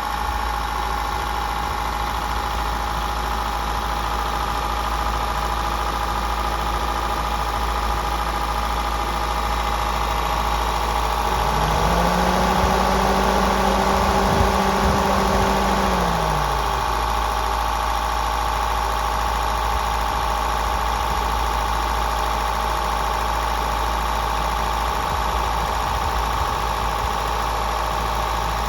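Honda LEB-H5 1.5-litre four-cylinder petrol engine from a 2021 Fit e:HEV, running steadily just after starting. A second tone rises about twelve seconds in, holds for about four seconds, then falls away.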